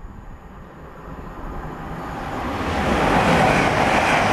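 A train passing, its running noise building from about a second in to a loud peak near the end.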